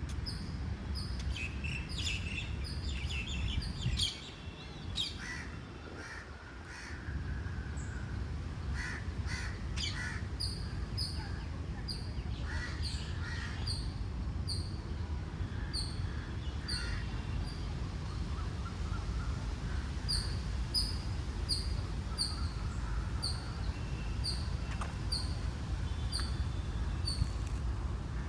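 Birds calling: one small bird repeats a short, high chirp about two to three times a second in long runs, with other louder, rougher calls in between, over a steady low rumble.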